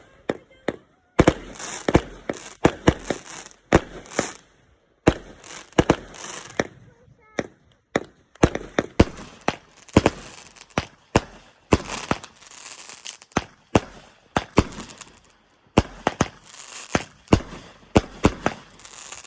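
Fireworks going off: many sharp bangs in quick, irregular runs with crackling between them, broken by several short pauses.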